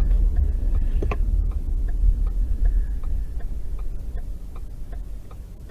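A car's indicator ticking steadily a few times a second over low road and engine rumble from inside the cabin. The rumble fades as the car slows to pull over and stop.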